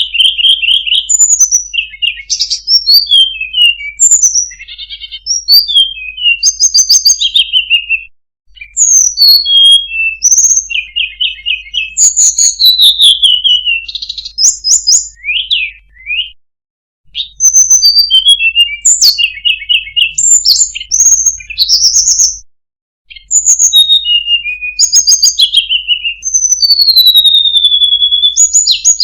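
Tledekan gunung songbird singing a fast, varied song of short trills, chirps and sweeping whistles, some sliding down in pitch. The song comes in long runs broken by brief silences about 8, 16 and 22 seconds in.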